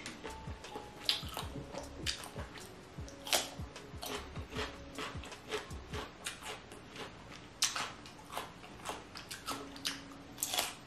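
Close-miked chewing of boiled cuttlefish: wet mouth and lip smacks and sticky clicks at irregular intervals, with a louder bite near the end.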